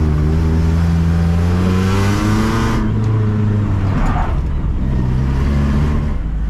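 BMW car engine revving: the pitch climbs for about two seconds with a rushing noise, drops sharply near the middle, rises briefly once more, then settles into a lower steady run.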